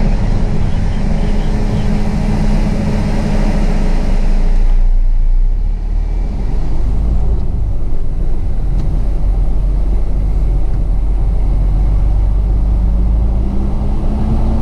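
Diesel semi-truck engine running steadily, heard from the cab, with a hiss over the first few seconds and the engine pitch rising slowly near the end as it picks up speed.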